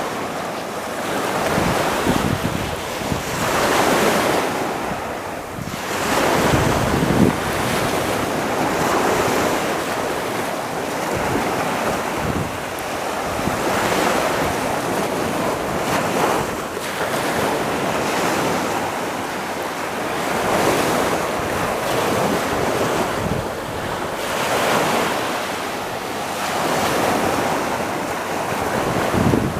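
Surf washing onto a beach, swelling and fading every few seconds, with wind buffeting the microphone.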